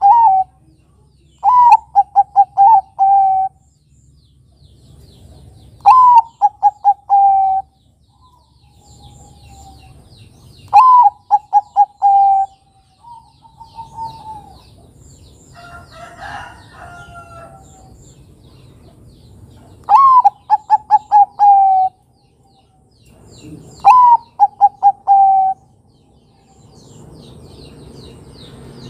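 Zebra dove (perkutut, Bangkok type) cooing. Each phrase starts with a rising note and runs into a quick string of five or six short coos, and the phrases repeat every four to five seconds with a longer pause in the middle. Faint chirping of other birds sits behind, and a different, lower call comes in about halfway through.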